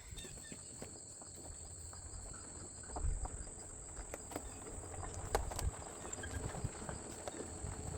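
Insects trilling steadily on a high pitch, with faint scattered clicks and knocks.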